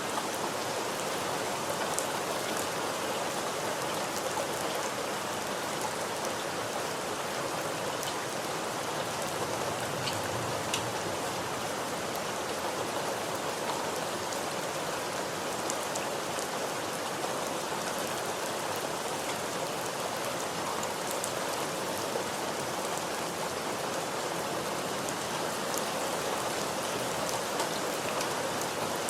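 Steady rain falling, an even hiss of drops with scattered faint individual drop ticks.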